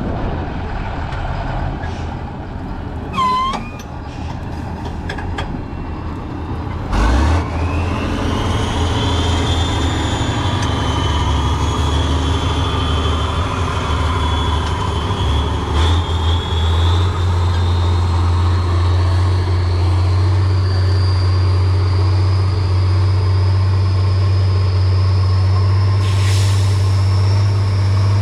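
Heavy off-road trial truck's diesel engine running, with a brief high squeal a few seconds in. About seven seconds in the engine suddenly takes load, and its turbo whine rises slowly in pitch as it keeps pulling hard.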